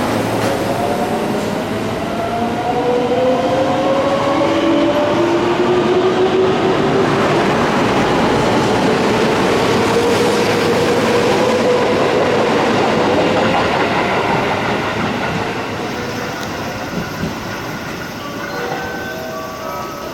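JR West electric train moving through the station: its wheels clatter over the rail joints while the motors' electric whine climbs in pitch, the sign of the train accelerating. The noise fades over the last few seconds.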